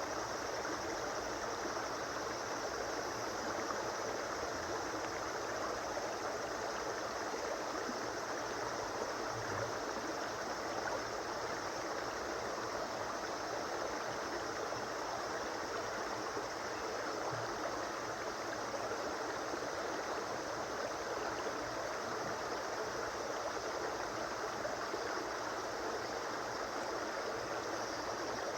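A stream flowing steadily over rocks, with a continuous rushing and gurgling.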